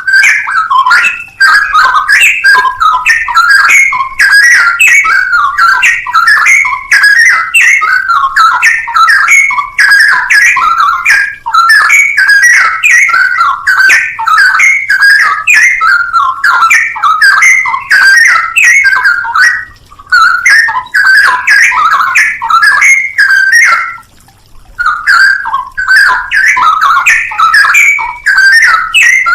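Straw-headed bulbul (cucak rowo) singing a loud, fast, continuous run of whistled, warbling phrases, with two short pauses in the latter part.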